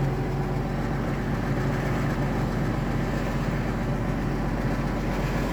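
Heavy rain with strong wind, a steady, even rushing noise without hail.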